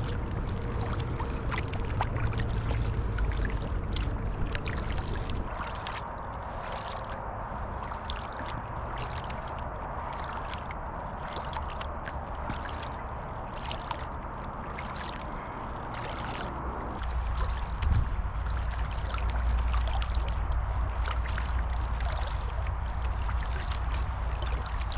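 Kayak paddling on calm water: paddle blades dipping, with water trickling and dripping in many small ticks. A low rumble comes and goes under it, strongest at the start and again in the last third.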